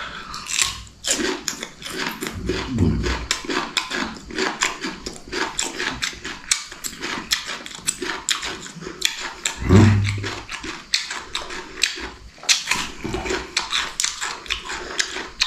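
Close-up chewing of fresh cucumber spread with sauce: quick, wet crunching and mouth smacking, a couple of clicks each second.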